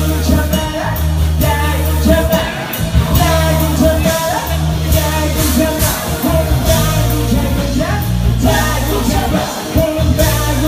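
Live rock song: a singer's voice over a band, with a steady bass line and cymbal hits keeping the beat.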